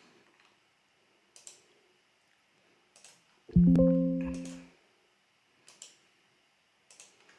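A computer alert chime: a single pitched tone that starts suddenly about three and a half seconds in and fades over about a second. Faint mouse clicks come now and then around it.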